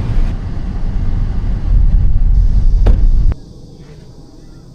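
Loud, steady low rumble that cuts off abruptly about three seconds in, leaving only a faint background hum.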